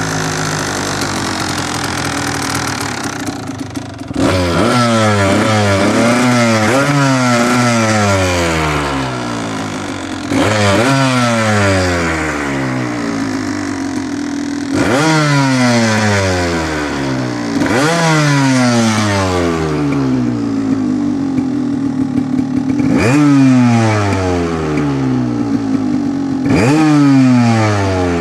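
Kawasaki KDX200's two-stroke single-cylinder engine running just after a cold start, revved sharply about seven times and falling back to a lower, uneven idle between blips.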